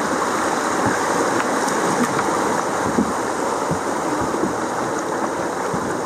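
Fast, foaming creek current rushing and churning around a canoe: a steady rush of moving water, with a few faint knocks now and then.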